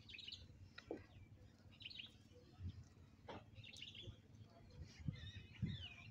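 Small birds chirping faintly, a scatter of short calls and quick sweeping notes, with a few soft clicks and low thuds in between.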